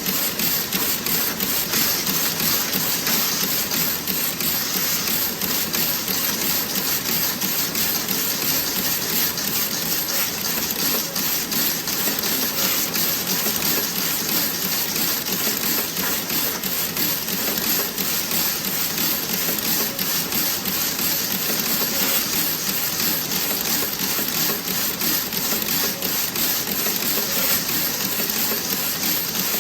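Toe-sock knitting machine running: a rapid, even clatter of needles and mechanism that keeps one pace.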